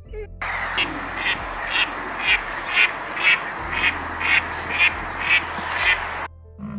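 Duck quacking, about a dozen quacks evenly spaced at roughly two a second, over a steady hiss.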